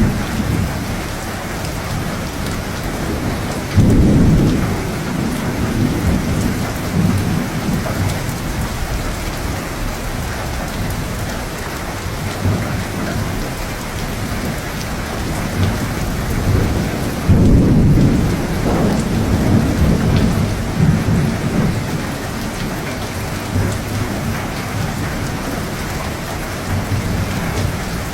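Steady rain falling, with two rolls of thunder. The first rolls in about four seconds in, the second and longer one about seventeen seconds in, and each rumbles on for a few seconds.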